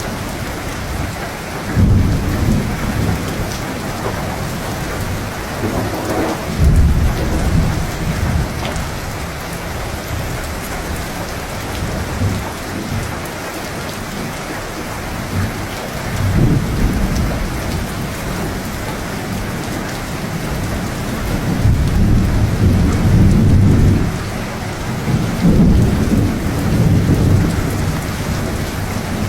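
Steady heavy rain with thunder rumbling again and again, in low rolling swells that come and go every few seconds.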